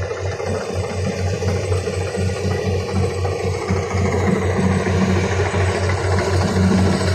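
Kubota combine harvester's diesel engine running with a rapid, regular low throb.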